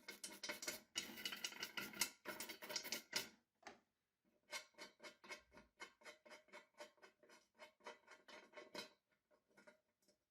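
Rapid hand-tool scraping strokes, such as filing or rubbing at a rusty metal part: a dense flurry, then an even rhythm of about four strokes a second that stops near the end.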